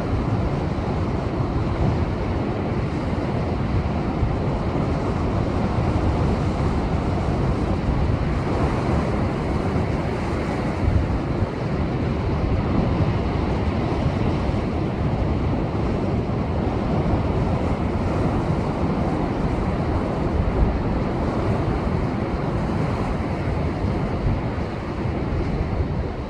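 Heavy storm surf from a typhoon swell breaking against shoreline rocks, a dense, steady rush of water, with wind buffeting the microphone.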